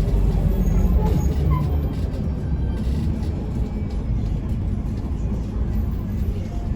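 Steady low rumble of a Mercedes-Benz O405N2 city bus heard from inside while it runs, engine and road noise together, easing slightly after about two seconds.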